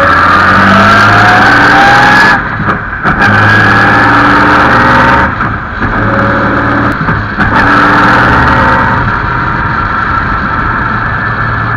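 Engine of the 1927 Bentley 'Old Mother Gun' racing car pulling hard, its pitch climbing under acceleration. The note breaks off briefly twice, about two and five seconds in, then settles to a quieter, steadier run near the end.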